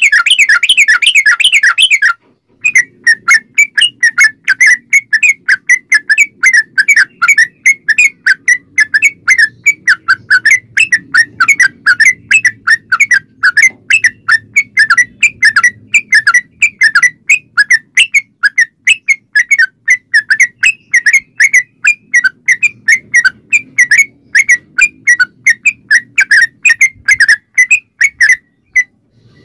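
Yellow-vented bulbul (trucukan) singing a long, rapid 'ropel' song: a continuous chatter of short whistled notes, several per second, louder and denser at the start before a brief break about two seconds in.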